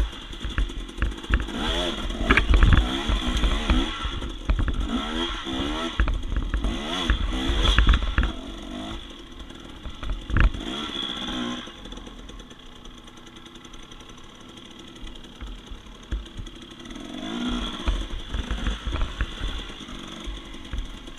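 Dirt bike engine revving up and down in short blips over rough ground, with knocks and clatter, for about the first half. It then settles to a quiet idle for several seconds and revs briefly again near the end.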